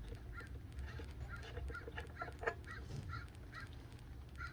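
A bird calling in the background: short, evenly repeated notes, two or three a second, with a faint click about two and a half seconds in.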